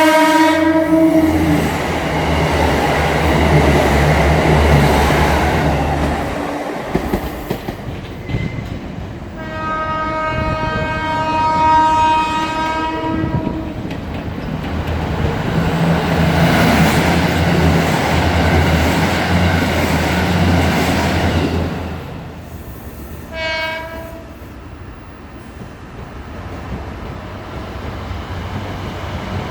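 KiHa 85 series diesel railcars passing at speed, their Cummins diesel engines running with a low drone under wheel clatter. A horn ends just after the start, a second horn is held for about four seconds a third of the way in, and one short horn blast comes about two thirds through.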